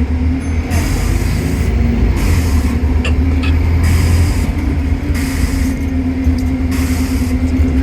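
Inside a London double-decker bus on the move: a steady low engine drone with a constant whine above it. A hiss comes and goes in stretches of about a second, several times.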